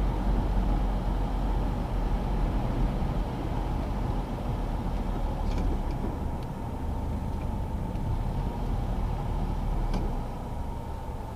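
Citroën DS on the move: steady engine and road noise under a heavy low rumble of wind, with a couple of faint clicks about halfway through and near the end.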